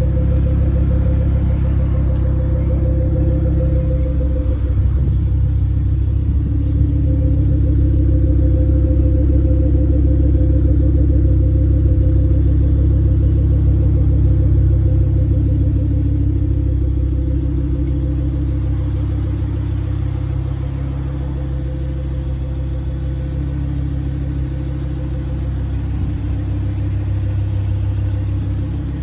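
Mk2 Ford Focus RS's turbocharged 2.5-litre five-cylinder engine idling steadily, a little quieter for a stretch past the middle.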